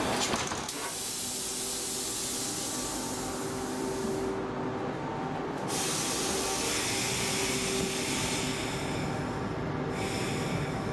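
Inside an X11 electric commuter train: the doors close with a clatter in the first second, then air hisses over a steady hum, stopping twice for a second or so, as the train gets ready to pull out.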